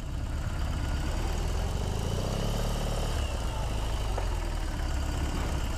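Motorcycle engine idling with a steady low rumble of even firing pulses.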